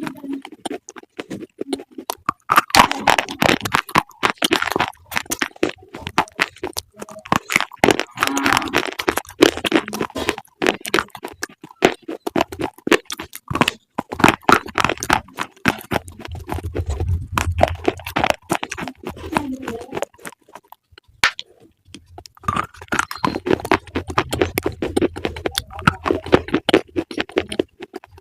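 Close-up crunching and chewing of crisp food: a rapid, uneven run of loud crunches, with a short pause a little past two-thirds of the way through.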